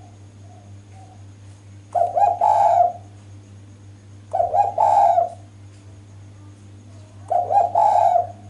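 A female spotted dove (derkuku) cooing: three call phrases of about a second each, roughly two and a half seconds apart, played as a lure to draw an answer from males.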